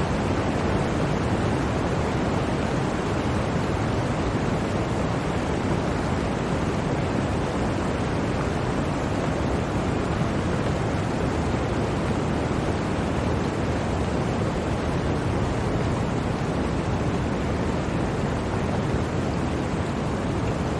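Blizzard wind: a steady, even rushing noise with no gusts or breaks.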